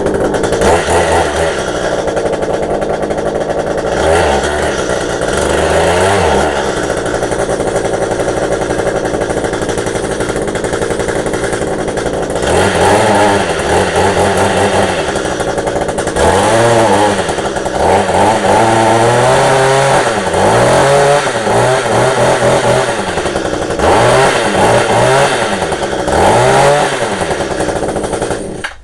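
Echo HC-150 hedge trimmer's small two-stroke engine running just after a cold start with the choke off, revved up and down repeatedly. It shuts off near the end.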